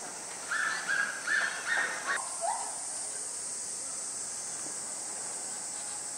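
Four short, evenly spaced cawing calls from a bird at one steady pitch, then a single shorter, lower call. After that only a steady high hiss remains.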